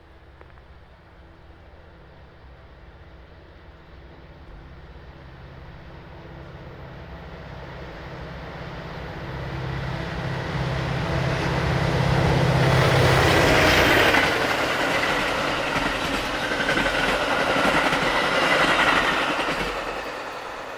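Diesel-hauled passenger train approaching and passing on the main line. The locomotive's engine hum builds steadily to its loudest about 13 seconds in, then gives way to the wheel-and-rail noise of the passing cars, which fades near the end.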